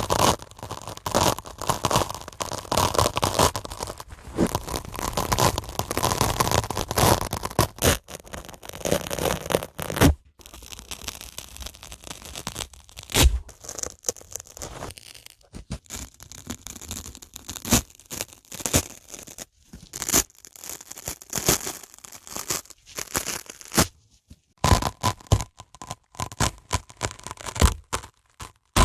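Dry sponge being worked close to the microphone: about ten seconds of dense crackling and tearing, then sparser scratches and sharp clicks.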